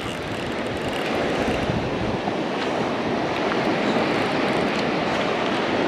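Surf breaking on a beach: a steady rushing wash of waves with no distinct events.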